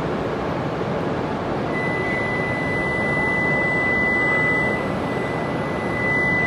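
E5 series Shinkansen pulling away from the platform: a steady rush of noise, joined about two seconds in by a single steady high-pitched whine that holds to the end.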